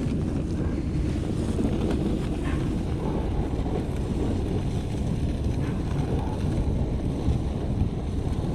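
Steady wind buffeting the microphone while it rides on a sled towed over snow, with a low, even rumble and no clear pitch.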